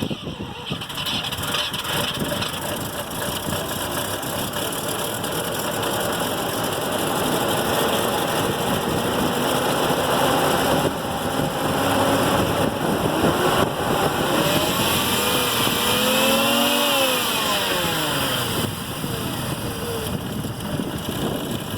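1984 Mazda RX-7's rotary engine running on choke just after a cold start, revved up and back down once about fifteen seconds in.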